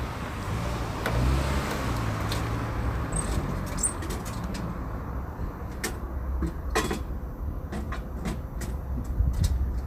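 Steady low vehicle rumble with scattered clicks and knocks over it, one sharp knock about two-thirds of the way in.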